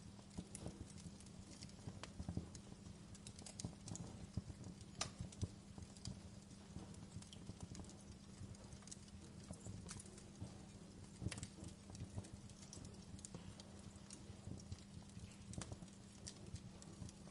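Wood fire crackling: irregular sharp pops and snaps over a low, steady rumble, with a few louder pops scattered through.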